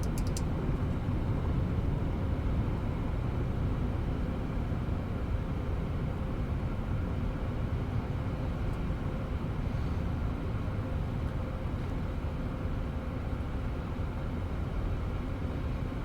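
Boeing 737-900 airliner's jet engines at takeoff power, a steady low rumble that slowly fades as the aircraft climbs away.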